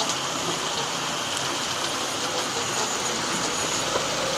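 Hornby 00 gauge model trains running on the layout's track, a steady even noise.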